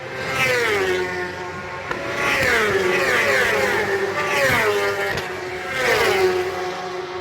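Superbike racing motorcycles running at high revs as they pass one after another. The engine note glides down in pitch several times as each bike goes by.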